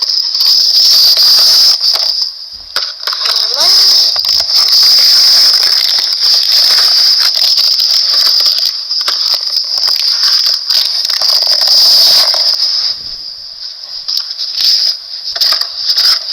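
Plastic and cardboard toy packaging being handled and opened: rustling, crinkling and rattling, with many small clicks and scrapes, over a steady high-pitched hiss.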